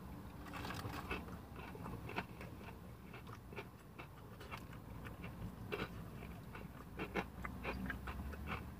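Close-up chewing of a fried chicken tender with crunchy cornmeal breading: irregular small crunching clicks, with a low steady hum beneath.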